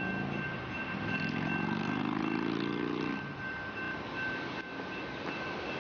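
A vehicle engine speeding up, its pitch rising for about two and a half seconds before it drops away, over a steady road and rail rumble. Two steady high tones run throughout.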